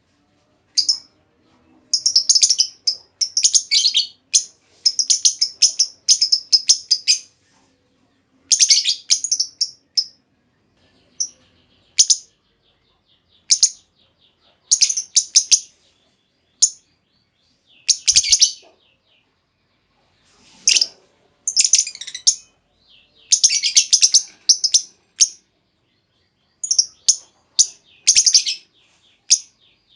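Female lovebird chattering in runs of rapid, shrill chirps, each run lasting from under a second to about three seconds, with short pauses between.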